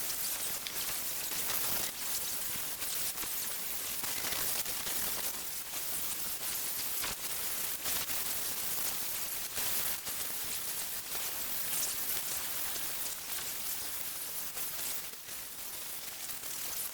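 Sanding of the bus's painted roof, a steady gritty hiss that flickers rapidly.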